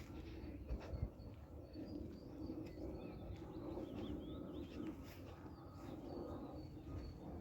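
Wild birds calling with many short, high chirps and quick whistled notes, fairly faint, over a lower, recurring murmur.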